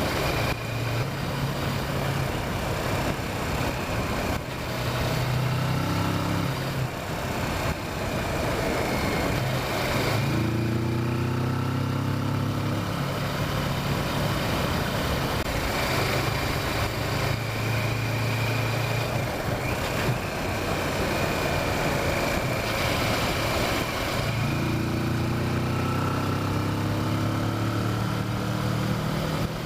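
Kawasaki Versys motorcycle engine running on the move, its pitch climbing twice as it accelerates, about ten seconds in and again in the last few seconds, over steady wind and road noise.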